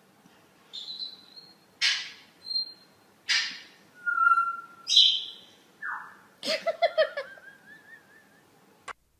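A parrot whistling and squawking: short clear whistles broken by harsh squawks. Near the end comes a stuttering call trailing into a wavering whistle. The sound cuts off abruptly with a click.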